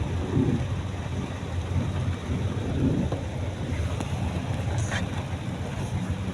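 Steady low rumble and hiss of a car driving in the rain, heard from inside the cabin.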